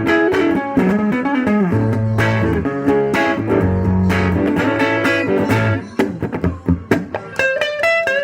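Clean-toned electric guitar playing a soul-blues riff over a backing with bass and drums. About six seconds in the playing breaks into short, separated stabs, then a quick run of single notes near the end.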